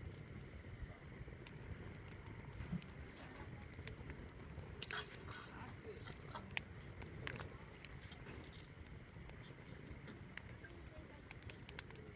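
Wood bonfire crackling: scattered sharp pops and snaps, a few louder ones around the middle, over a faint steady low rumble of the burning fire.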